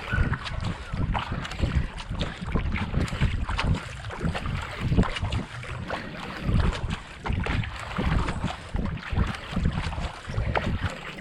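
Kayak paddle blades dipping and pulling through the water in a steady racing rhythm of about 70–80 strokes a minute, with wind buffeting the microphone.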